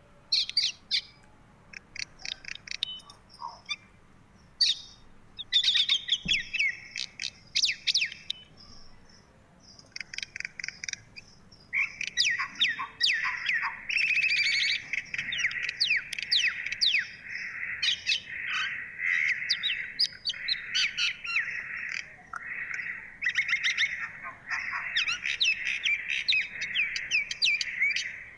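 Small birds chirping in quick runs of notes. About twelve seconds in they thicken into a dense chorus of many birds at once, which cuts off suddenly near the end.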